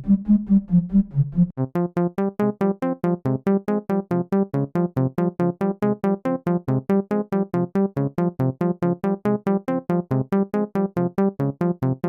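u-he Triple Cheese software synthesizer playing a fast, even run of short plucked notes, about four or five a second. About a second and a half in, a brighter pattern with a crisp tick on each note comes in.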